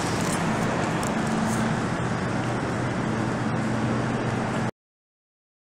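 Running noise of an MTR Tung Chung Line K-Train, a Korean-built electric multiple unit: a steady rumble from the train with a low hum that comes and goes and a few light clicks. The sound cuts off abruptly about three-quarters of the way in.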